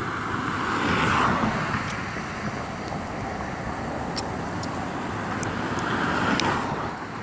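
Street traffic: cars passing on a road, the tyre and engine noise swelling and fading twice, about a second in and again around six seconds in.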